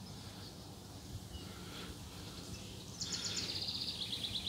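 A songbird singing a fast trill about three seconds in, its rapid notes stepping down in pitch, after a few faint high chirps.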